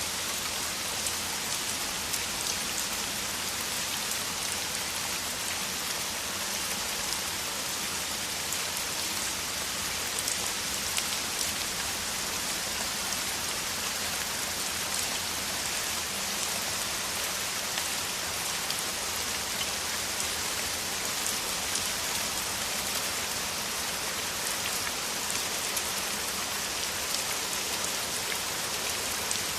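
Steady downpour of heavy rain: a dense, even hiss of falling drops with faint individual drop ticks.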